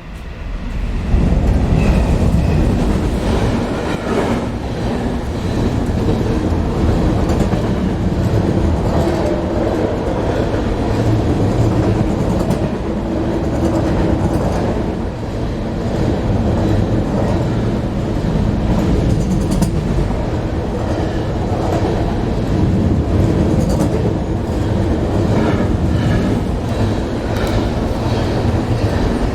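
Train crossing a railway bridge, heard from underneath: a loud, steady low rumble that swells in about a second in, with repeated clacks of wheels over the rails and a steady droning hum from the vibrating bridge.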